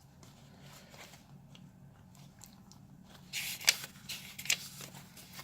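Papers of a handmade junk journal rustling and crinkling as they are handled and turned, with a louder spell of crinkling about three and a half seconds in.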